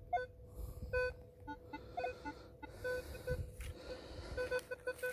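Minelab Equinox 800 metal detector giving short, irregular beeps at a few different pitches over a faint steady tone as the coil is picked up and swung.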